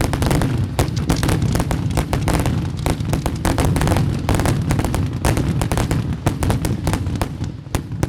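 A fireworks display's finale barrage: many overlapping bangs and crackles a second over a continuous low rumble, thinning out near the end.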